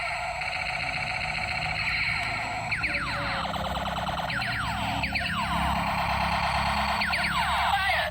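Siren sound effect, warbling at first and then sweeping down in pitch again and again from about a third of the way in, over a steady low rumble.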